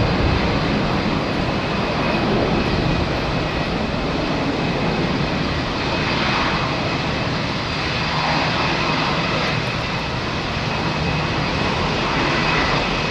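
Airbus A330 twin jet engines at takeoff power, a steady loud noise with a faint high whine running through it.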